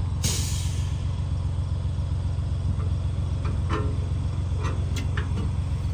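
An engine idling steadily with a low, evenly pulsing drone, with a short hiss about a quarter second in and a few light knocks over it.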